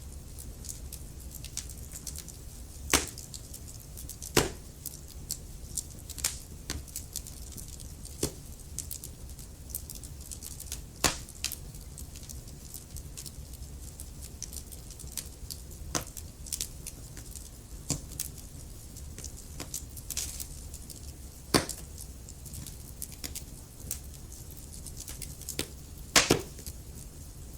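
Wood fire crackling in a fireplace: frequent sharp snaps and pops over a steady low rumble, with a handful of much louder pops now and then.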